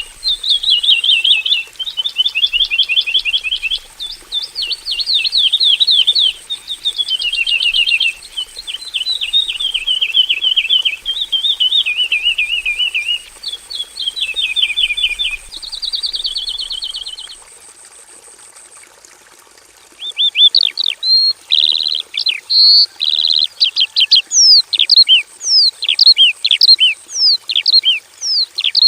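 Horsfield's bush lark (branjangan, Mirafra javanica) singing a varied song: fast trilled phrases of rapidly repeated notes, a pause of about two seconds, then a run of sharp down-slurred whistles.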